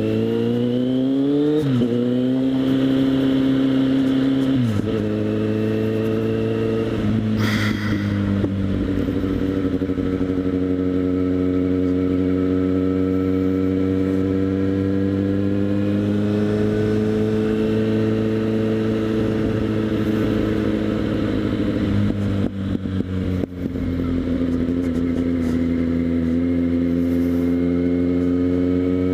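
Kawasaki Z800's inline-four engine through a LeoVince SBK aftermarket exhaust, heard from a helmet chin mount while riding: revs climb and drop sharply with upshifts about two, five and seven seconds in, then it cruises with revs slowly rising and falling, easing off briefly past the middle before pulling again.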